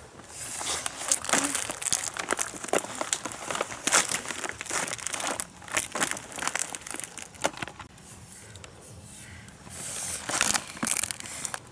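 Irregular crinkling and crackling, as of something being crumpled or rustled by hand, pausing about eight seconds in and starting again near ten seconds.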